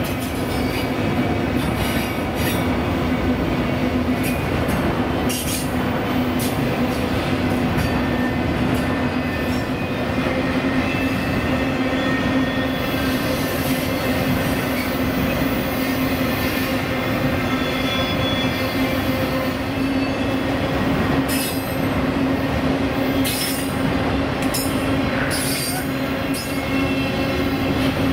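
Long freight train of auto-rack cars rolling past at close range: a steady rumble of steel wheels on rail with a steady whining tone, and scattered sharp clicks and clanks over the top.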